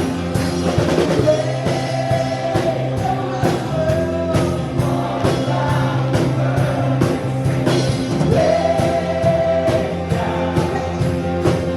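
Live worship band playing with a steady drum beat, about two hits a second, under group singing of long held notes.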